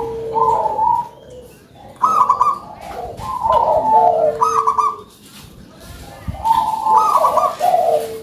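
Zebra dove (perkutut) cooing: its trilled song phrases come in three bouts, at the start, from about two seconds in, and again near the end.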